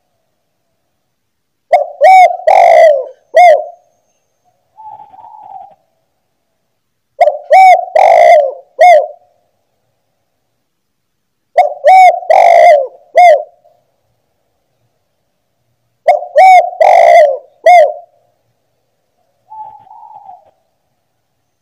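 Spotted dove (tekukur) cooing: four loud song phrases about four and a half seconds apart, each a quick run of several coos. A fainter short call comes between some of the phrases.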